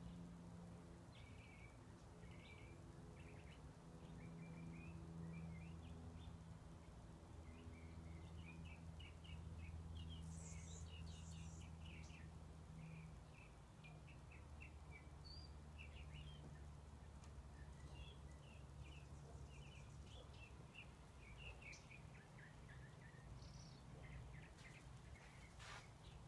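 Faint chirping of small birds, many short chirps scattered throughout, over a steady low hum of background noise.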